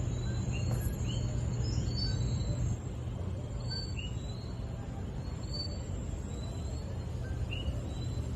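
Outdoor ambience: small birds chirping in short, repeated notes over a steady low rumble.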